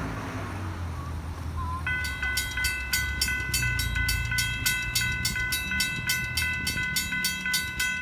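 Railroad grade-crossing warning bell starts ringing about two seconds in, striking evenly about three to four times a second, over the low rumble of an approaching train.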